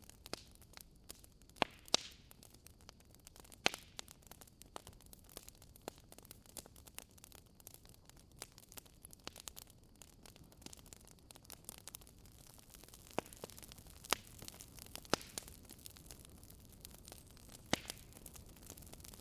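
Logs burning in a fireplace, crackling: irregular sharp snaps and a few louder pops over a faint steady hiss.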